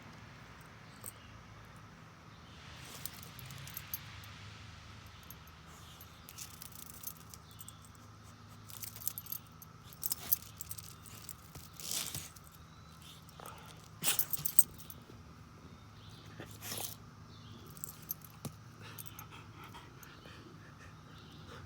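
A dog's collar tags jangling with irregular clicks and taps as the dog paws and noses at a cicada, busiest and loudest in the middle.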